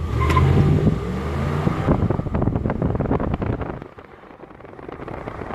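Ram 1500 Rebel pickup on its stock exhaust: the engine is revved for about two seconds, then falls back toward idle.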